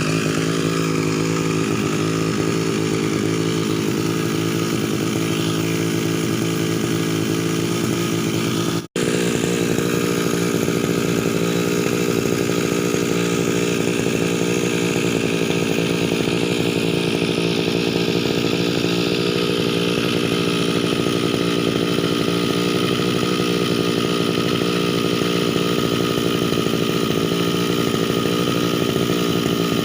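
Tasto TK328 brush cutter's two-stroke engine running steadily, at the start of its run-in on a rich oil-fuel mix. The sound drops out for an instant about nine seconds in.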